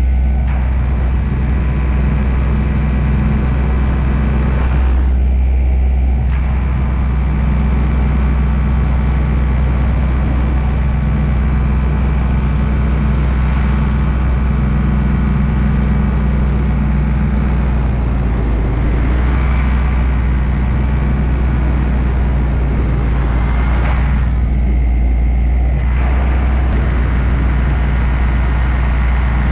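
Paramotor engine and propeller running steadily in flight, a loud low drone whose pitch shifts slightly about eighteen seconds in.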